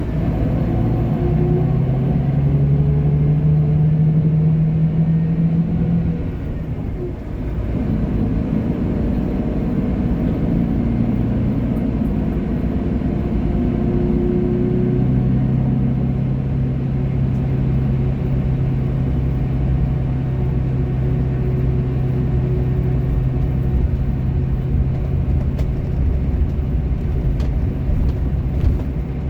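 Road vehicle engine running at a steady speed with a deep hum and road rumble, dropping briefly about seven seconds in, as at a gear change, then running steadily again.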